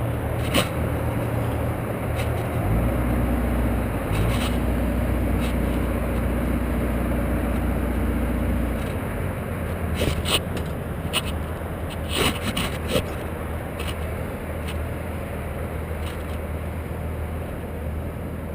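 An engine running steadily, its hum rising and getting louder from about three seconds in for about six seconds, then settling back. There are scattered short knocks and clicks, several of them a few seconds later.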